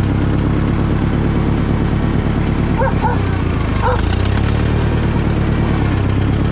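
International 2400B tractor engine idling steadily. A dog yips twice, about three and four seconds in.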